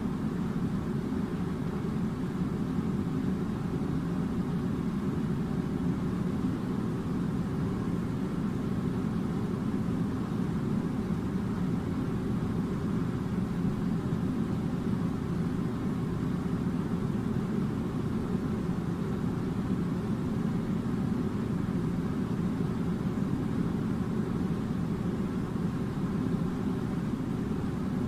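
Air conditioner running, a steady low rumble of fan and blown air that stays the same throughout.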